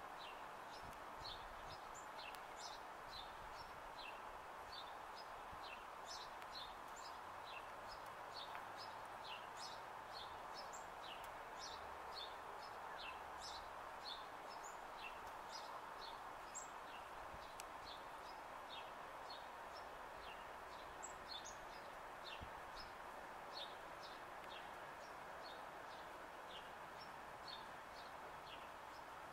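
Small birds chirping: many short, high chirps, several a second, over a faint steady background hiss.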